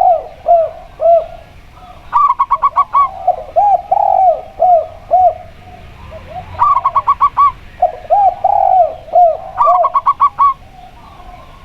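Zebra dove and spotted dove cooing against each other: quick runs of short clipped notes alongside rounded, arching coos, in about three bouts with short pauses between, tailing off near the end.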